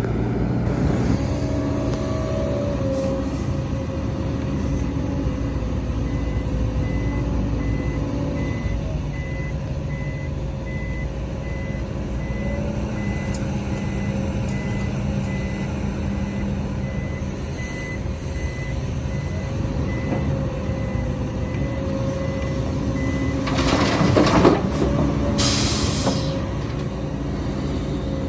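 Diesel engines of a dump truck and excavator running steadily, with a truck's reversing alarm beeping evenly from about six seconds in until near the end. As the beeping stops, there is a brief loud rush of noise followed by a short sharp hiss of air brakes.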